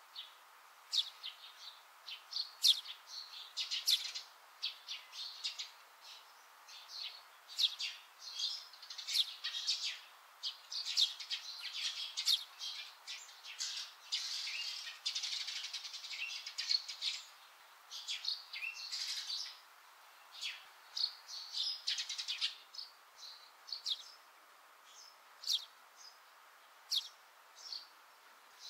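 Small birds chirping: many short, high calls in quick runs, with a few sparser stretches between them.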